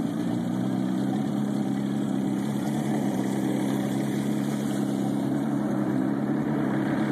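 Boat motor running steadily at low speed, an even engine hum.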